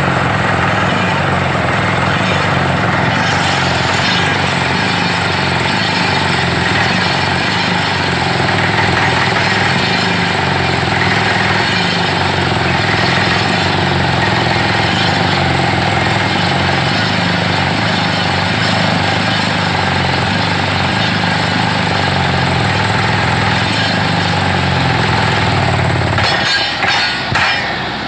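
Borewell drilling rig running loud and steady, engine and drilling noise together with a heavy low rumble. The rumble cuts off about two seconds before the end, with a few sharp knocks as it stops.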